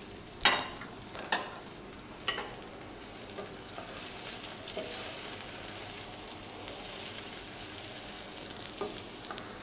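Sliced onions, bitter gourd and green chillies frying in oil in a non-stick wok, stirred with a wooden spatula. There are three sharp knocks in the first two and a half seconds, the first the loudest, then a steady sizzle with light crackling.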